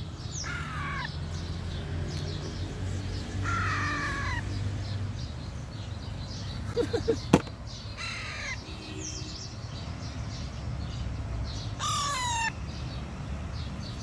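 Four harsh bird calls, each falling in pitch and lasting about half a second, spaced a few seconds apart. About halfway through, a quick cluster of knocks ends in a sharp click, the loudest sound here, with a steady low hum underneath.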